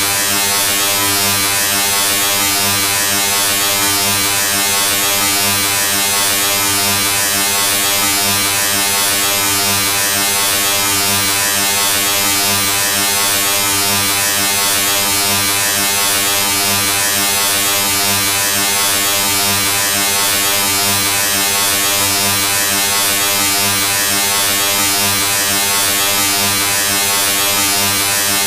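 A small electric motor or blower running, a steady buzz under a strong hiss that does not change.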